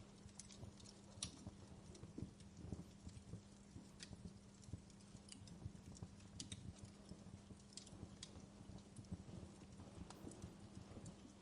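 Faint crackling of a wood fire in a fireplace: irregular small snaps and pops at uneven intervals over a low rumble, with a steady low hum underneath.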